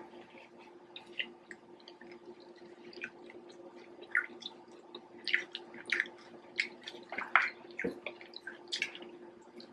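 Close-miked eating sounds: wet mouth smacks and chewing of fried dumpling with callaloo, heard as scattered short clicks that grow busier about halfway through, over a faint steady hum.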